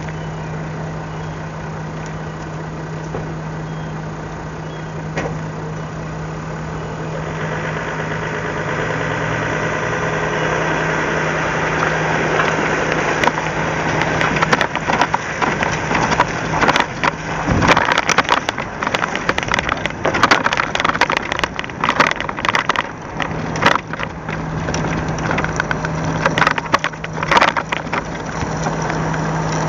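An engine idling with a steady low hum, a rushing noise building under it, and from about halfway on a run of irregular knocks and clatter.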